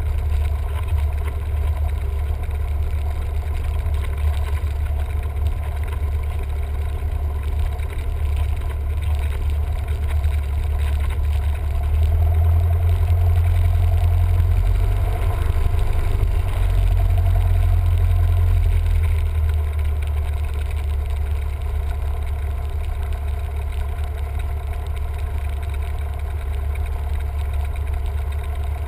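Cessna 172M's Lycoming four-cylinder piston engine and propeller running with a steady drone, louder for about seven seconds from some twelve seconds in.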